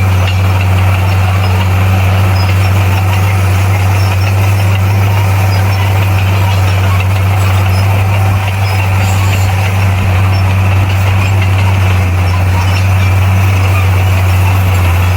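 Bulldozer's diesel engine running at a steady speed with a deep, even hum and no change in revs.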